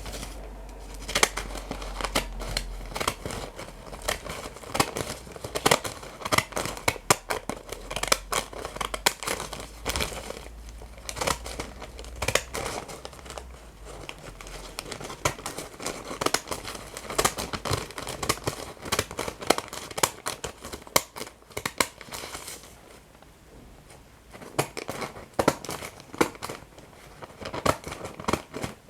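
Paper crinkling, being torn and snipped with scissors close to the microphone: a dense run of irregular crackles and snips, with a brief lull about two-thirds of the way through.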